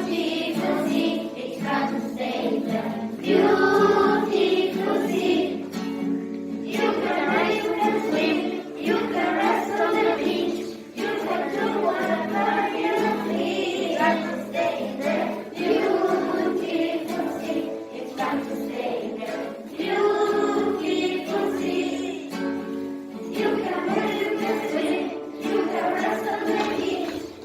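A group of children singing together in chorus, with instrumental accompaniment of steady held notes.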